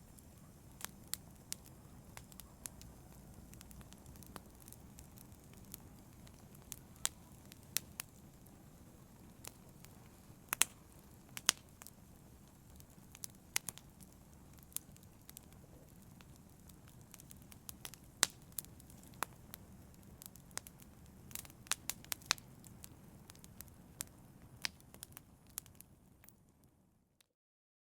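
Wood fire crackling, with irregular sharp pops and snaps over a low, steady rush of flame; it fades out near the end.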